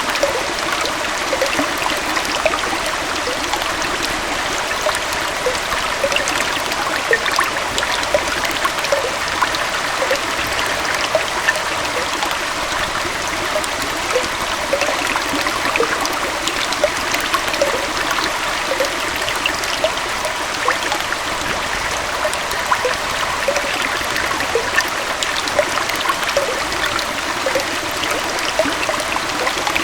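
Small waterfall and stream flowing steadily: a continuous rush of falling water, with many small splashes and gurgles.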